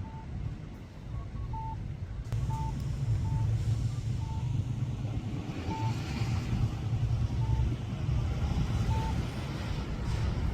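Steady low rumble of a vehicle running, growing louder about two seconds in, with short high-pitched electronic beeps repeating at uneven gaps of about a second or more.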